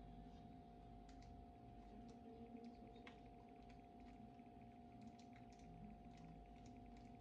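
Faint, irregular light clicks and taps of hands working with a dish, spoon and cookies, over a steady low hum.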